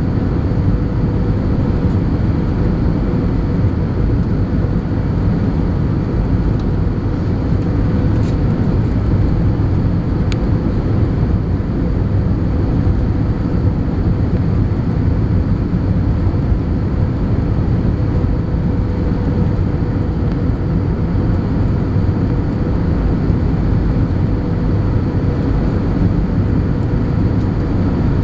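Airbus A320 cabin noise: a steady rush of jet engines and airflow, with a steady mid-pitched hum running through it and no change in level.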